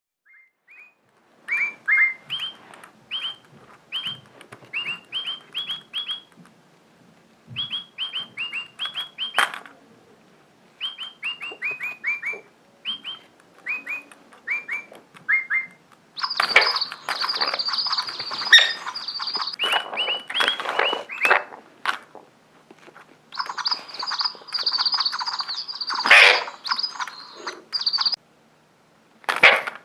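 A bird calling: runs of short, quick rising whistled chirps in phrases of several notes, then from about halfway, louder, harsher chattering calls with a steady high whistle over them, in two long stretches.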